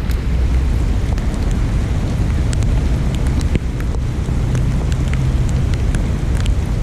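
Wind buffeting the camera microphone in a steady low rumble, with scattered light ticks of rain striking the camera.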